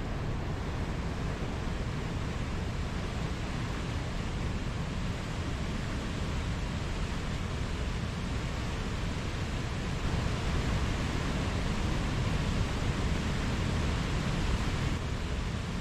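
Mountain stream flowing: a steady rush of water, slightly louder for a few seconds from about ten seconds in.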